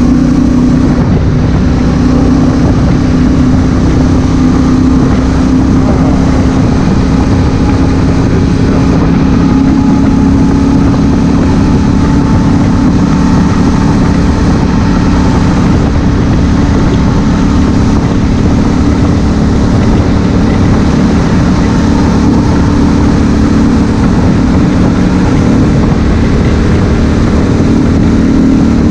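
A 2016 Honda Africa Twin CRF1000L's parallel-twin engine running at a steady speed under way, with heavy wind and road noise on the helmet-mounted camera.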